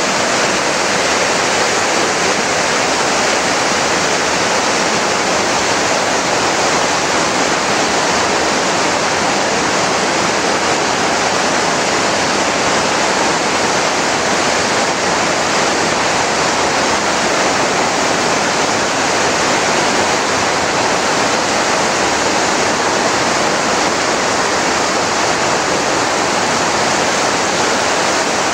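Waterfall pouring: a loud, steady rush of falling water that never changes.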